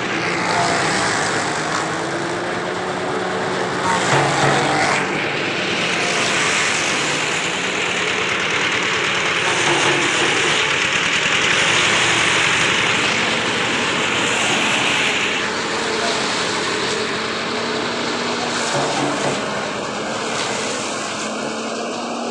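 Wood-shaving machine for poultry-coop litter running, a loud steady mechanical whir with a hissing, grinding cutter noise that eases about fifteen seconds in.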